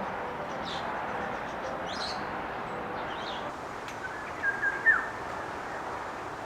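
Small forest birds chirping: a few short high chirps, then a louder brief call with a downward slide about five seconds in, over a steady background rush.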